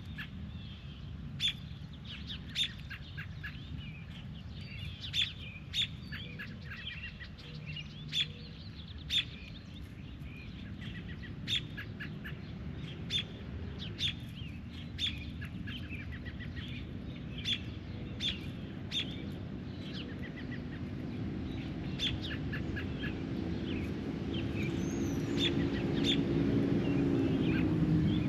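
Short, sharp bird calls repeated about once a second, over a low outdoor rumble. In the last third a low hum grows steadily louder.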